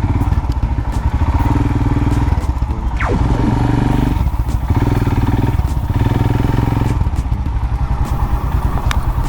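Royal Enfield Himalayan's 411cc long-stroke single-cylinder engine running under way, a steady rapid low thumping of firing pulses. A brief falling whine sounds about three seconds in.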